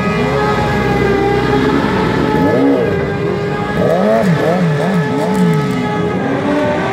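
Small pit-bike motorcycle engines revved in quick rising-and-falling blips, several overlapping about four to five seconds in, over another engine held at steady revs.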